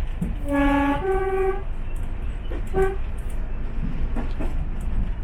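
Diesel locomotive's two-tone horn: a low note then a higher one, about a second in all, then one brief toot on the higher note about two seconds later, over the steady low rumble of the train running.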